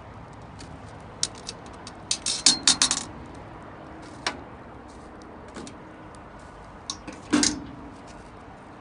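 Metal camp cookware and utensils clinking and tapping: a quick run of clinks a second or two in, a few single taps, and one louder clink near the end.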